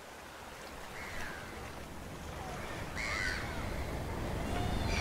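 Birds calling over a low, steady rushing background that slowly grows louder. One faint call comes about a second in, a louder one about three seconds in, and more near the end; each call bends in pitch.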